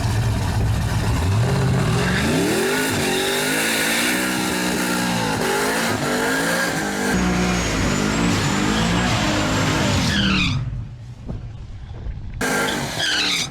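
Drag-racing engines launching and accelerating hard down the strip. The engine pitch climbs, then dips and climbs again at each gear change. The sound falls away suddenly near the end.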